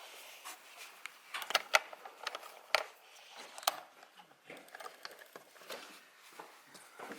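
Scattered clicks and knocks of tools and parts being handled during a spark plug job, with a few sharper knocks between about one and a half and four seconds in.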